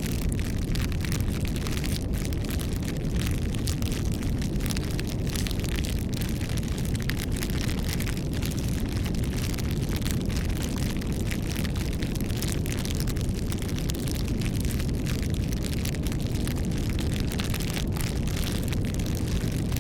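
Wood fire burning, with rapid irregular crackles and pops over a steady low rumble.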